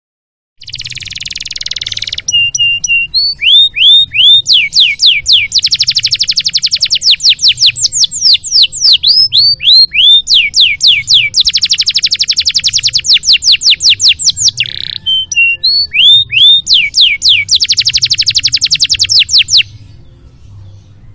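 Domestic canary singing a long song phrase. It opens with a short buzzy note, then alternates downward-sweeping whistled notes with long, very fast rolling trills, and stops suddenly near the end. A faint low hum runs underneath.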